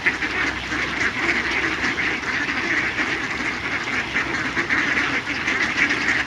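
A large flock of ducks quacking and calling continuously, many birds at once in a dense, overlapping chatter.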